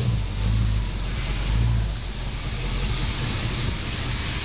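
1968 Chevrolet Camaro's 327 small-block V8 engine running, swelling louder twice in the first two seconds and then settling to a steadier, lower level.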